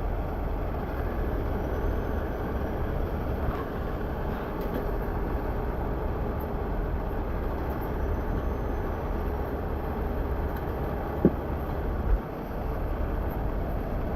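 Steady rumble of heavy diesel vehicle engines running, with a sharp metallic knock about eleven seconds in and another about a second later.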